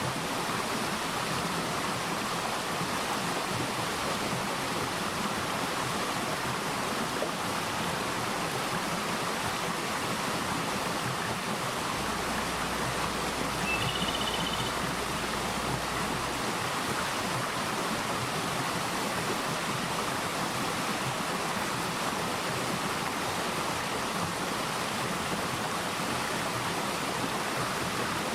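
Mountain valley stream flowing steadily, an even rush of running water. A bird gives one brief, high chirp about halfway through.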